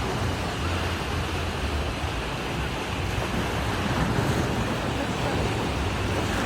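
Ocean surf washing onto the beach, a steady hiss of breaking water with a low rumble of wind on the microphone.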